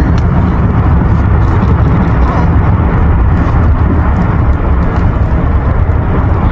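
Deep, loud, continuous rumbling of Hubbard Glacier calving, ice breaking off the face and crashing into the sea.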